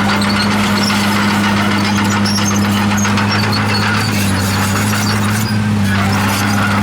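Komatsu D51PX bulldozer working: its diesel engine runs at a steady pitch while the steel tracks squeak and clatter with many short high-pitched squeals.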